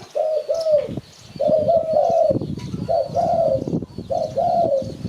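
Spotted dove cooing: four phrases of two or three notes each, about one a second, with a low rumble underneath from about a second in.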